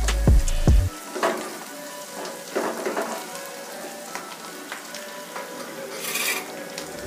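Sliced onions and whole spices frying in ghee in a non-stick kadai: a steady sizzle with small scrapes and taps of a spatula stirring the pan, and a louder burst of sizzle near the end. Background music with a beat stops about a second in and returns at the very end.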